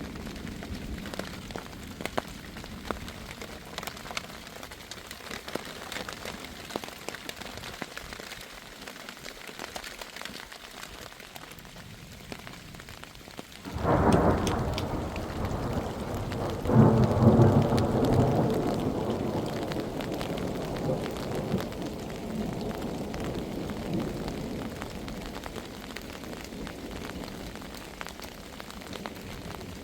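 Heavy rain falling steadily, then about halfway through a sudden clap of thunder that swells again a few seconds later and rolls away slowly under the rain.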